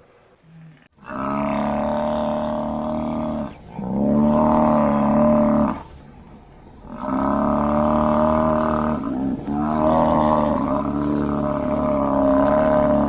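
A large mammal calling: four long, steady-pitched calls of two to four seconds each, separated by short pauses.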